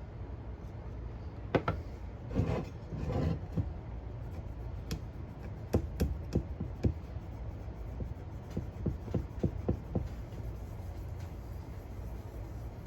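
Hand-polishing a metal coin bank with Blue Magic polish: short bursts of cloth rubbing on metal a couple of seconds in, then a run of small sharp clicks and knocks as the bank and polish container are handled.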